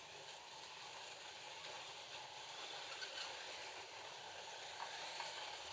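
Slot cars running laps: a steady whirring hiss from their small electric motors and tyres on the track, with a few faint clicks near the end.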